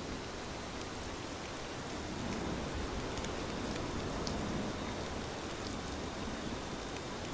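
Steady rain falling, an even hiss with scattered faint drop ticks, swelling slightly for a few seconds in the middle.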